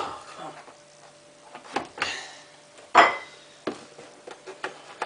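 Hard plastic clattering and knocking as detergent containers and the washing machine's dispenser drawer are handled, a handful of separate knocks with the loudest about three seconds in.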